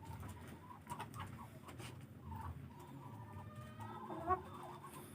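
Chickens clucking faintly in short pitched calls, with a slightly louder call a little after the middle. A few faint knocks sound in between.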